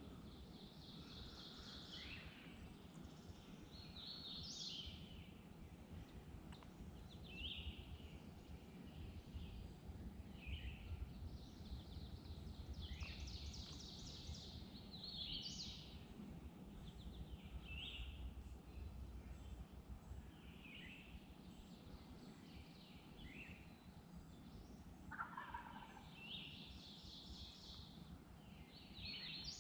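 Faint dawn chorus of songbirds singing short phrases every couple of seconds, with a distant wild turkey gobbling once about 25 seconds in.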